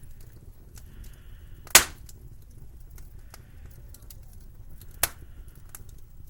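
Wood fire crackling: a low steady rumble with scattered small crackles and two loud sharp pops, one about two seconds in and one near the end.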